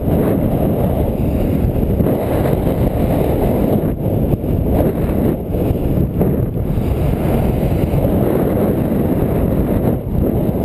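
Wind buffeting the microphone of a camera on a moving bike: a loud, steady low rumble with no let-up.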